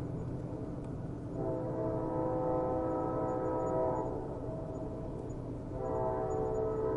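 Train horn sounding long blasts, one from about a second and a half in to about four seconds and another starting near the end, over a steady low rumble of the train.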